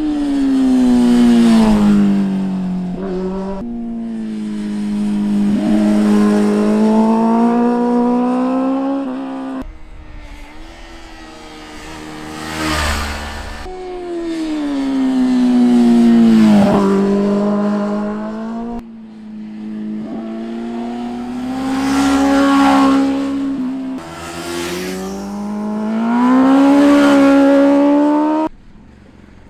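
Sport motorcycles passing one after another at speed, about six pass-bys. Each engine note swells and then drops in pitch as the bike goes by, with abrupt cuts between them.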